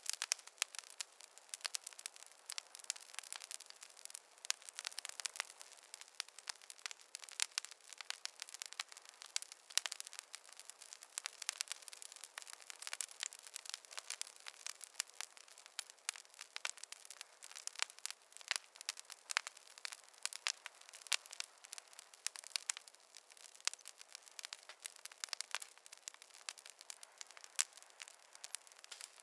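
Campfire crackling: a dense, irregular run of small pops and snaps, thin-sounding with no low rumble of flames.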